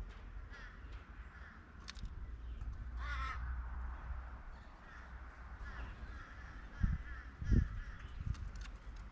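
A crow cawing: one harsh call about three seconds in and fainter calls a few seconds later, with two dull thumps close to the microphone near the end over a steady low rumble.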